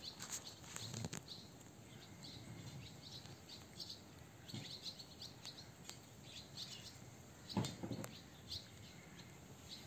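Small birds chirping over and over in the background. A husky puppy licking and chewing a treat from a hand makes a few soft smacks and knocks, the loudest about three-quarters of the way through.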